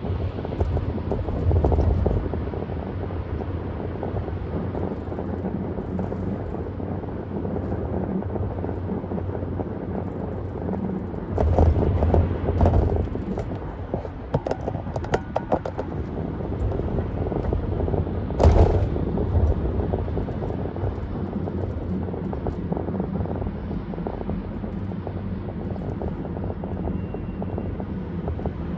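Road noise from a car driving at parkway speed: a steady rumble of tyres and wind, swelling louder twice around 12 and 13 seconds in, with a short sharp thump about 18 seconds in.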